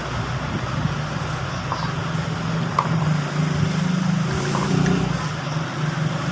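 A steady low mechanical hum, like an engine running, that grows a little louder in the middle, with a few light clicks.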